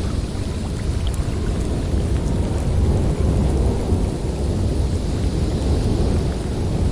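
Blizzard wind blowing hard in a steady, deep rushing noise that swells a little a few seconds in.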